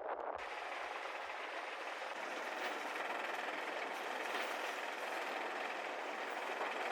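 Steady rushing noise of wind and water on a moving sailboat. A low rhythmic throb fades out in the first couple of seconds.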